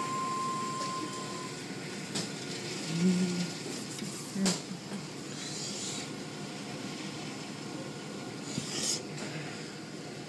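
Car wash machinery running with a steady mechanical rumble, passing bursts of spray hiss and a few knocks. A steady high tone stops about a second and a half in.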